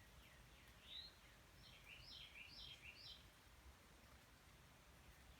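Faint birds chirping over a low background hum: a quick falling note about a second in, then a short run of chirps a moment later.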